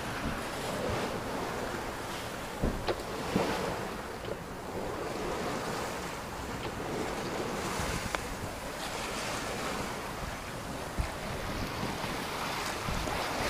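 Water rushing and splashing along the hull of a Hanse 342 sailboat under sail through waves, with steady wind buffeting the microphone. A few short knocks stand out, a cluster about three seconds in and single ones later.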